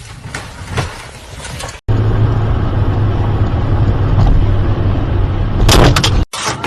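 Vehicle noise. After an abrupt cut about two seconds in, a loud, steady low engine drone runs on. Near the end a short, loud cluster of sharp knocks and clatter breaks in.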